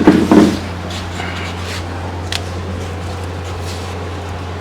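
A short clunk of handled engine parts just at the start, then a couple of faint clicks over a steady low hum.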